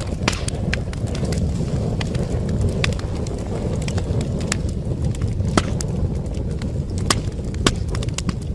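Wood fire burning in a fireplace: a steady low roar of the flames with irregular sharp crackles and pops of the burning wood.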